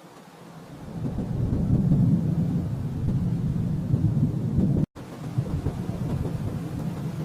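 Rolling thunder: a deep rumble that builds about a second in and rolls on. It cuts out completely for an instant about five seconds in, then carries on and slowly dies away.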